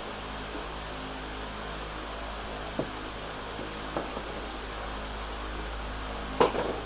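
Steady low hum and hiss with a few light knocks or clicks, the loudest one near the end.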